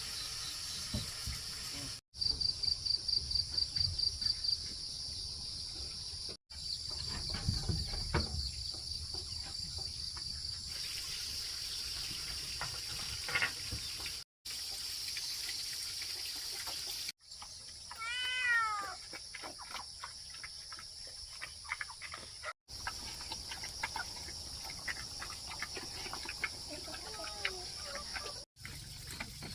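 Outdoor ambience broken by several abrupt cuts: a steady high-pitched drone throughout, a fast pulsing call near the start, and a single drawn-out animal call about 18 seconds in.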